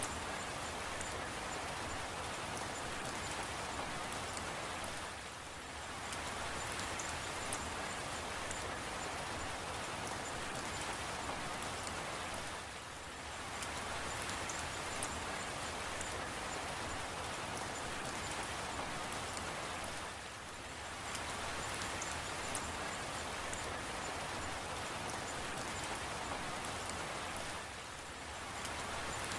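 Steady rain falling, an even patter of many drops. It briefly softens about every seven to eight seconds.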